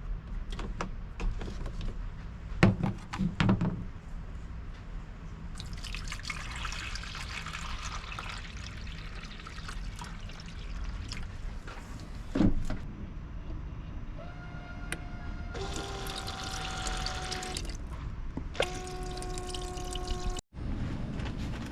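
Water being poured into containers to make ice, with knocks and clicks of handling. Later come two spells of a steady pitched tone.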